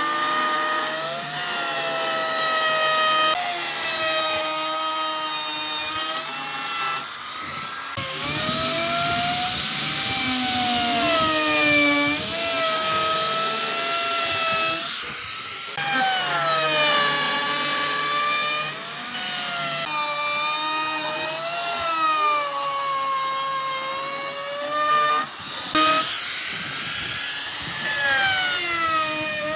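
Electric power tool motor working wood, its whine sagging and rising again every few seconds as the load on it changes.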